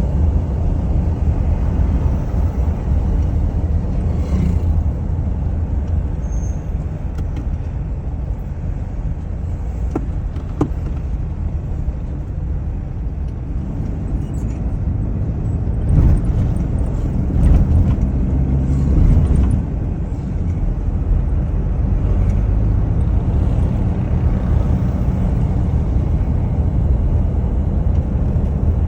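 A vehicle's steady low rumble, with a few louder swells about halfway through.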